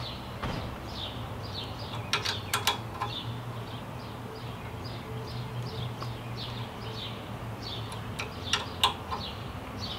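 A bird chirping over and over in short falling notes, about two a second, over a low steady hum. A few sharp clicks come about two seconds in and again near the end, from the trimmer rack's clamps being tightened by hand.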